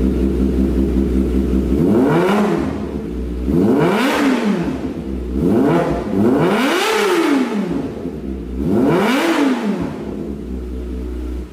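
Kawasaki ZX-25R 250 cc inline-four with an aftermarket exhaust, idling and then blipped four times, the pitch climbing sharply and falling back each time before settling to idle again. The sound cuts off abruptly near the end.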